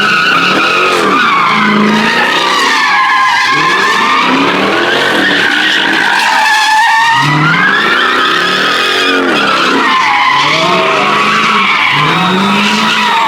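A car spinning its tires in a sideshow-style stunt: a continuous tire screech that wavers in pitch, while the engine revs up and drops back every second or so.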